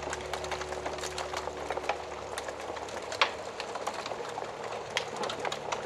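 Wood fire crackling, with irregular small pops and one sharper pop about three seconds in, over a faint low steady tone that fades out near the end.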